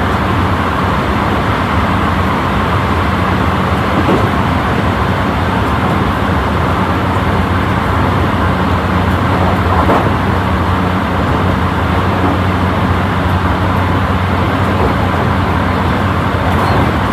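Running noise of a JR West Special Rapid electric train at speed, heard from on board: a steady rumble of wheels on rails with a low hum underneath.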